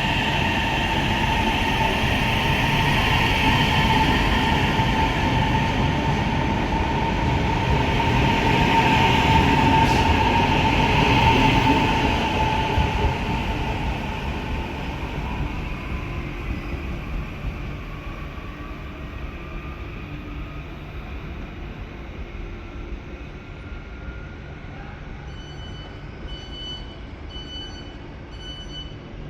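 Passenger train running close by, its rumble and a steady motor whine loud at first, then fading as the whine rises slowly in pitch while the train pulls away. Near the end, a series of evenly spaced high beeps sounds.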